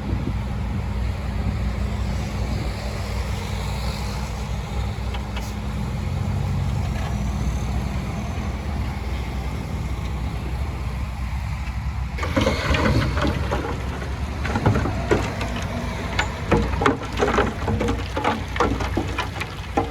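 Heavy diesel earthmoving machinery running with a steady low rumble. About twelve seconds in, a rapid, irregular clatter of rocks and stones knocking and tumbling begins, louder than the engine.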